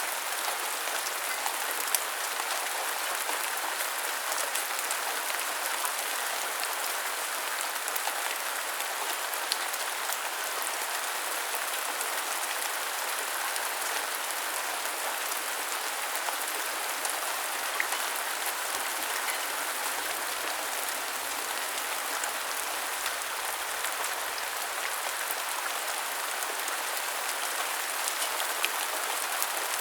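Steady rain falling: an even hiss with many small drop ticks, and a few louder single drops now and then.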